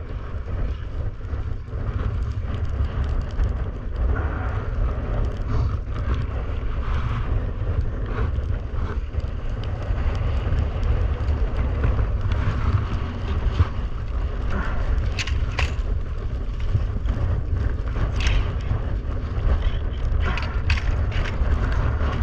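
Heavy wind buffeting the microphone, over the scraping and chattering of a ski-winger sliding fast across rough ice, with sharper crackling scrapes in the last few seconds.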